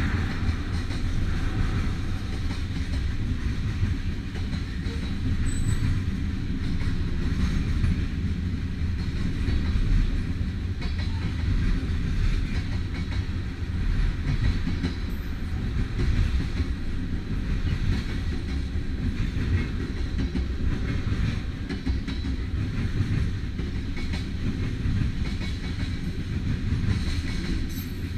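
Freight train cars rolling past, a steady low rumble of steel wheels on rail with some clicking over the rail joints.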